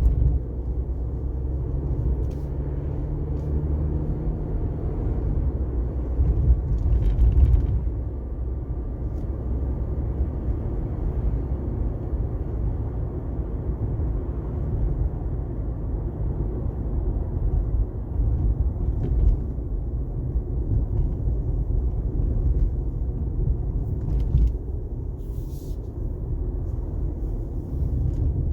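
Car driving on a rain-wet highway: a steady low rumble of road and engine noise, with a few brief hisses.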